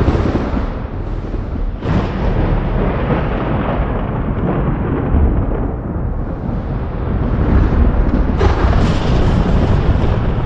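Thunder rumbling without a break, with a fresh sharp crack about two seconds in and another near the end.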